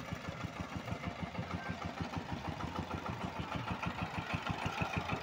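Changfa single-cylinder diesel engine of a bhutbhuti motor van idling, a steady even thudding of about seven firing strokes a second.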